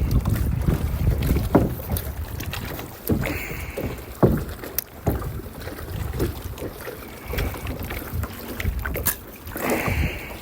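Strong wind buffeting the microphone in gusts, with choppy water slapping and splashing against a kayak's hull in irregular knocks.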